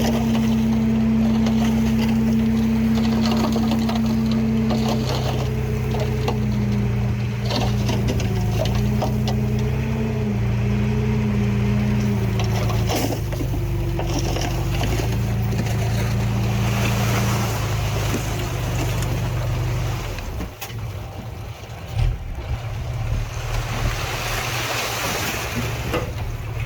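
Heavy diesel engine of earthmoving machinery running under load, its pitch stepping up and down. About twenty seconds in it drops away, followed by a sharp knock and a rushing, clattering noise.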